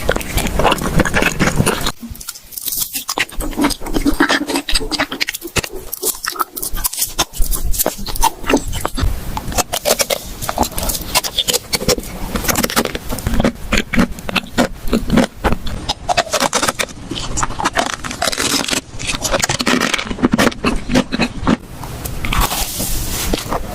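Close-miked eating sounds: crunchy biting and chewing, with many sharp crackles and wet mouth noises.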